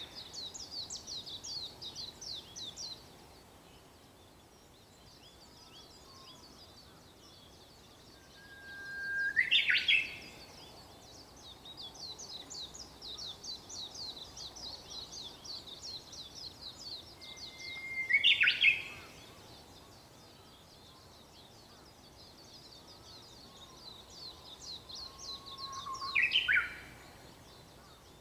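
Japanese bush warbler singing its "hoo-hokekyo" song three times, about eight seconds apart: each is a held whistle that slides up into a quick, loud flourish. Between the songs another small bird keeps up a rapid, high twittering.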